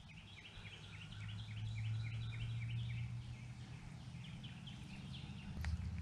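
A bird singing outdoors, a fast run of short repeated falling notes lasting about three seconds, then a few more notes near the end.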